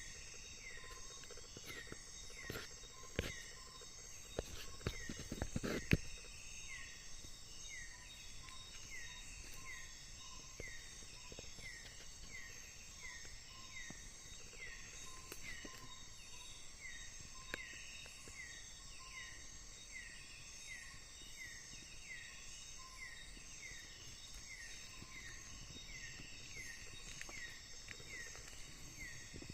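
Tropical rainforest at night: a steady high drone of insects, with a short downward-sliding call repeated about every 0.7 seconds. A few sharp knocks sound in the first six seconds.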